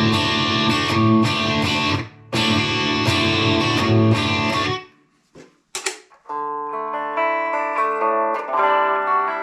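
Electric guitar, a Fender Stratocaster, played through a Fender Mustang GTX100 modelling amp: strummed chords with a gritty, overdriven tone. These stop about five seconds in, and after a brief gap with a couple of clicks, sustained single notes ring out on a different preset.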